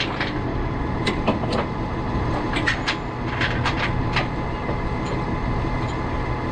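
Metal safety chains clinking sharply several times as they are hooked into the truck's tow hooks, over a steadily idling truck engine.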